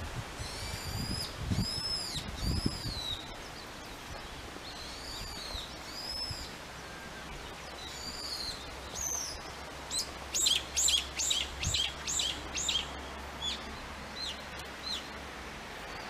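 A songbird singing: repeated clear, arched whistled notes, then about three seconds of rapid falling notes. A few low thumps come in the first few seconds.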